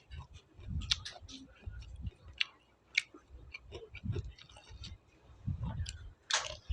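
A person chewing food close to the microphone: wet mouth sounds with many sharp crisp clicks and crunches, and low thumps of the jaw about once a second.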